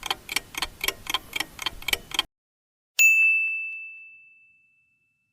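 Clock ticking about four times a second as a countdown timer sound effect, stopping a little after two seconds in; about three seconds in, a single bell ding signals time up and fades out over about a second and a half.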